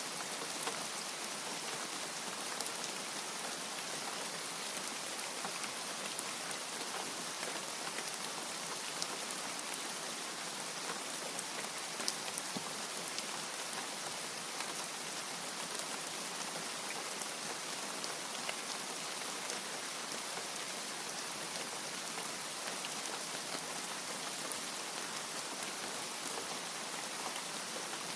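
Steady rain: an even, dense hiss of falling rain with scattered single louder drops ticking through it.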